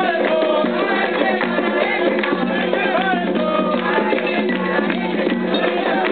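Several voices singing a chant together over continuous hand-drum and percussion rhythm: Afro-Brazilian religious ceremonial music.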